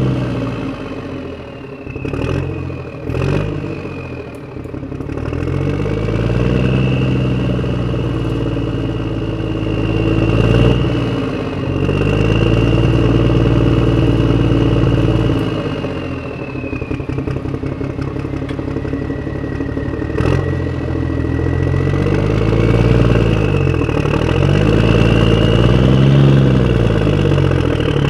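Toy disk engine running with a mechanical hum and whir that speeds up and slows down over and over, with a few sharp clicks.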